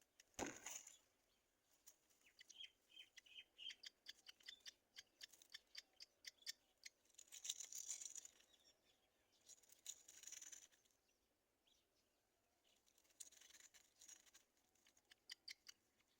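Black-winged kites at the nest: faint rustling and clicking, a quick run of short high chirps, and three raspy, hissing calls about a second long each.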